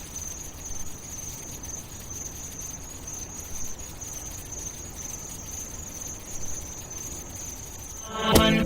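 Steady high-pitched chirring like night-time insects, over a faint low hum. Music starts suddenly near the end.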